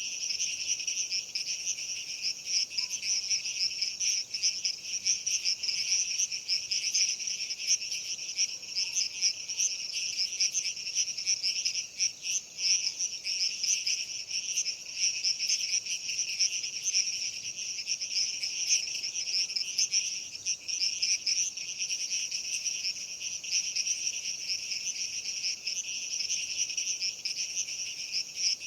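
Dense night insect chorus, crickets and similar insects, a continuous shrill, flickering trill in two high pitch bands.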